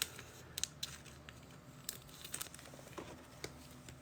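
Trading cards being handled: faint, scattered clicks and light crinkling of card stock and pack wrapper.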